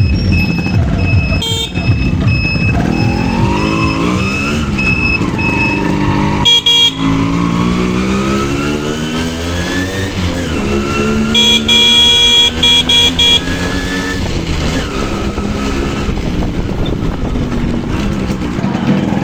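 Yamaha RX100 two-stroke motorcycle engine accelerating, its pitch rising again and again as it pulls through the gears. A vehicle horn honks in several short blasts a little past the middle.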